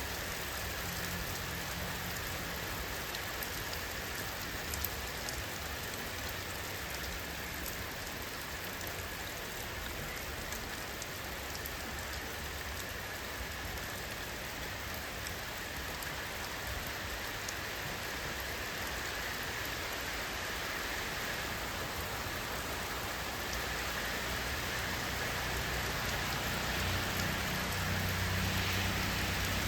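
Steady rainfall, an even hiss with scattered drops ticking on a surface; a low rumble grows a little louder near the end.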